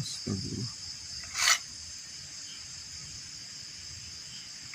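Night insects, crickets, chirring in a steady high drone, with a short, loud hiss about a second and a half in and a man's brief exclamation at the start.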